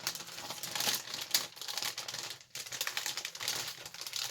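Plastic kit bag crinkling and rustling with dense fine crackles as it is handled and the plastic sprues are taken out of it.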